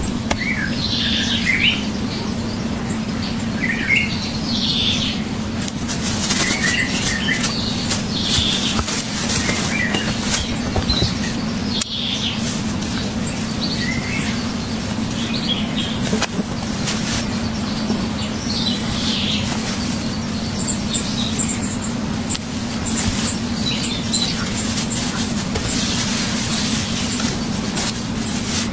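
Wild birds chirping with short, scattered calls over a steady low hum and a constant noisy background.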